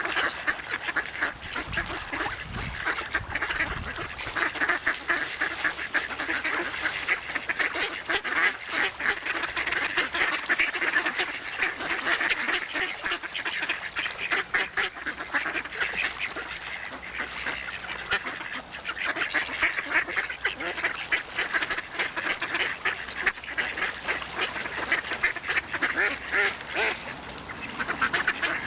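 A flock of ducks quacking and chattering, many short calls overlapping continuously.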